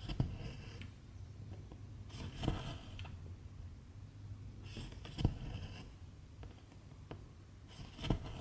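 Silk embroidery thread drawn through 11-count cross-stitch fabric: four brief scratchy rasps of the thread pulling through, each with a soft tap of needle and hand, roughly every two and a half seconds.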